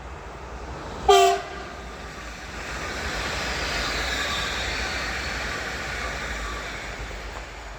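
A train sounds one short horn blast about a second in, then runs past, its rumble and wheel-on-rail noise swelling and fading away.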